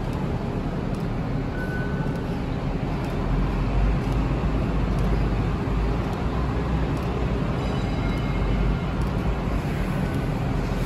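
Hong Kong Light Rail train running, a steady low rumble that swells about three and a half seconds in, with a brief high tone about two seconds in.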